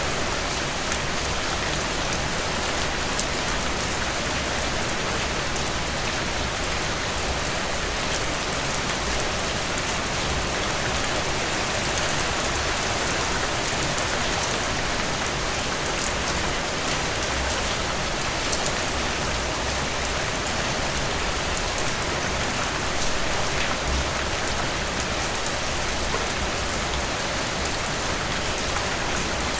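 Steady rainfall, a dense even hiss of drops landing on surfaces with fine individual patters, with no thunder.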